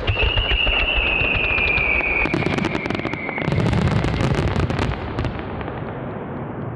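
Fireworks: a sharp bang at the start, then a high whistle that slowly falls in pitch for about four seconds, with dense crackling from about two to five seconds in over a low rumble.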